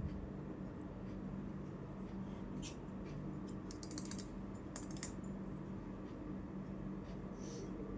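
Light tapping and clicking of small miniature toy kitchen pieces being handled, in a few short clusters about three to five seconds in, over a steady low hum.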